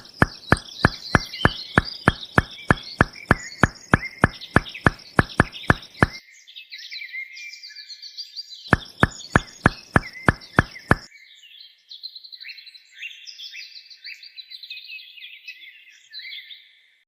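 Even, rapid knocking at about three strokes a second in two runs, with a pause between them, typical of a mini hand pump's handle being worked before water comes. Birds chirp throughout.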